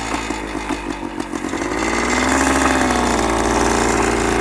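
Kawasaki F11 250 two-stroke single-cylinder engine idling with an even pulse, then revving up and pulling away about a second and a half in, its pitch rising and falling as it gets under way.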